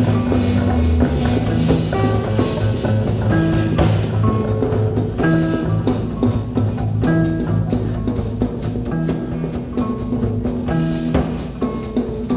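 1960s rock band playing a live instrumental jam: electric guitar lines over bass and a drum kit, with no vocals.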